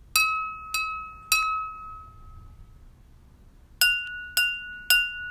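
A spoon taps water-filled drinking glasses, each tap a bright clink with a ringing tone. Three quick taps on one glass ring at one pitch. About two seconds later, three taps on another glass ring at a noticeably higher pitch: each glass sounds its own note.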